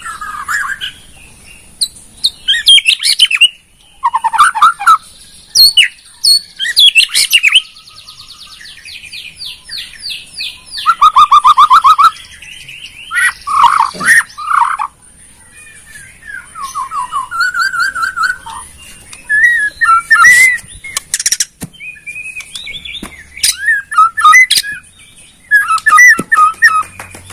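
White-rumped shama (murai batu) singing loudly in short, varied phrases: clear whistles, a rapid trill, chattering notes and sharp high notes, with brief pauses between phrases. This is a territorial song of the kind played to other shamas to stir them to sing and fight.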